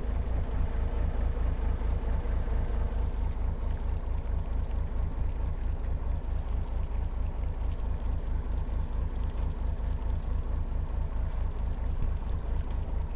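Boat engine running steadily at low speed, a rapid even low thumping.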